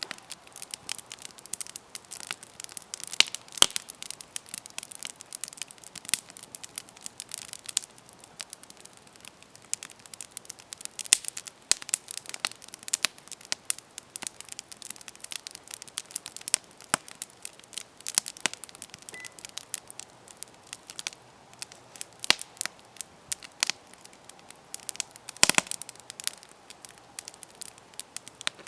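Campfire burning: wood crackling with frequent irregular sharp pops and snaps over a faint low hiss, one pop louder than the rest near the end.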